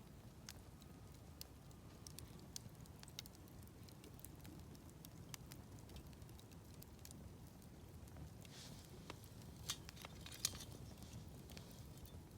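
Quiet campfire crackling, with scattered small pops of burning wood at irregular moments. A denser run of louder crackles comes about nine to ten and a half seconds in.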